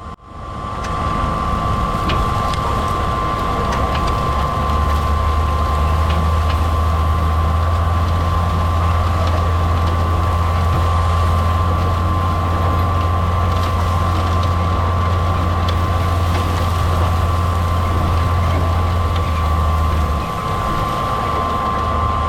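Tractor engine running steadily with a constant high whine above its low drone; the drone grows heavier a few seconds in and eases slightly near the end.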